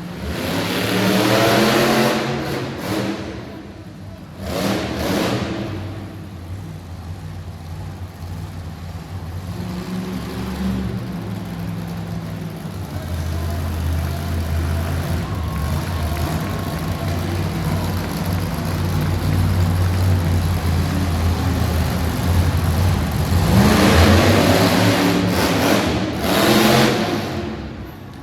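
A truck engine revs and labours, with loud surges in the first seconds and again near the end, and a steady low drone under load in between.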